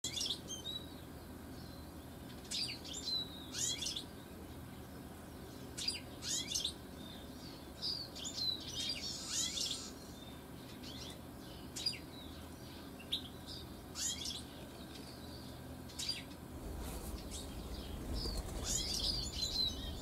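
Small garden birds calling in snow: short, high chirps and down-sweeping notes every second or two. A low rumble comes in near the end.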